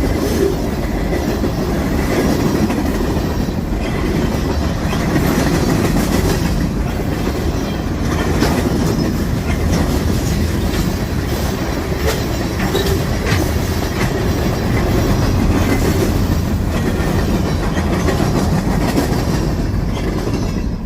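Wisconsin & Southern freight train rolling past at close range: a steady rumble of wheels on rail with a repeated clickety-clack as the wheels cross rail joints.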